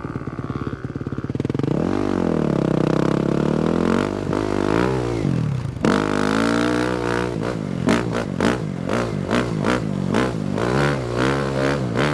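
A 250cc four-stroke motocross bike's single-cylinder engine being ridden, revving up and falling back again and again as the throttle works, with a sharp drop in revs about six seconds in. Over the second half, a quick run of short knocks and rattles sounds over the engine.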